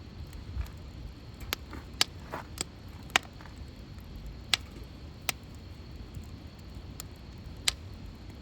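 Firewood burning in an open fire, crackling: about ten sharp, irregular pops over a steady low rumble.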